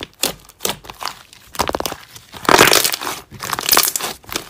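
Slime being squeezed and stretched by hand: a string of sticky crackles and pops, with a quick run of tiny clicks midway and a louder squish about two and a half seconds in.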